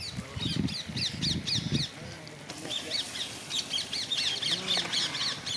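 A bird calling in rapid runs of short, high, downward-sweeping chirps, several a second, in two bouts with a gap of about a second between them. Low background voices are heard during the first two seconds.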